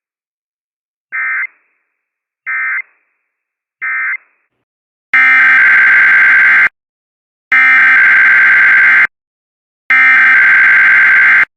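Emergency Alert System SAME data tones, the buzzing two-tone digital bursts used to encode alerts. Three short bursts, the end-of-message code that concludes a required weekly test, are followed a second later by three longer, louder bursts of the same warbling kind.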